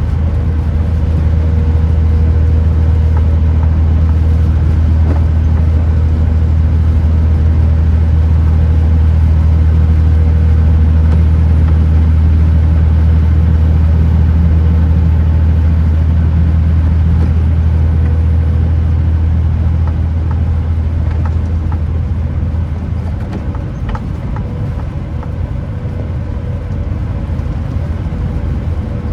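Kenworth T909 truck's diesel engine droning steadily while driving, a strong low hum that eases off slightly about two-thirds of the way through.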